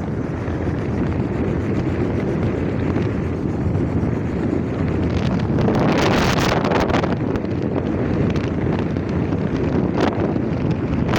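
Wind buffeting the microphone of a moving motorcycle: a steady rush of wind and road noise that gusts louder about six seconds in.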